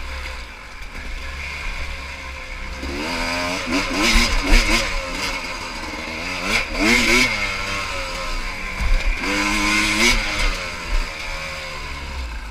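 Pit bike engine revving hard as it is ridden, its pitch climbing and dropping in three surges: about three, seven and ten seconds in.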